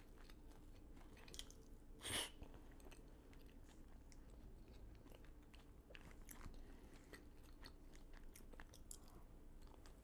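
Faint close-up chewing with small crunches, one louder crunch about two seconds in.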